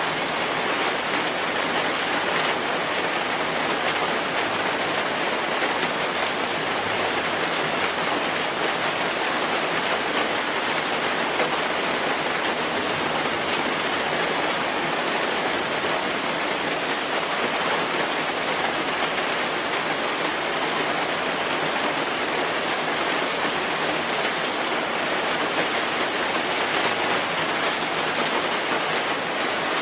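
Steady heavy rainfall, an even hiss of rain on surfaces with scattered drops.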